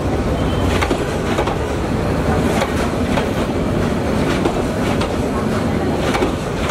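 Passenger coaches of a departing intercity train rolling past, a steady rumble with wheels clacking over the rail joints.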